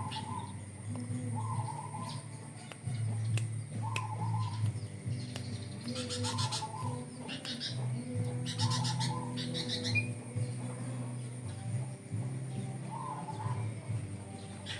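Sooty-headed bulbul (kutilang) singing: a short whistled phrase repeated about every second and a half, with bursts of higher, rapid chattering notes around the middle, over a low steady hum.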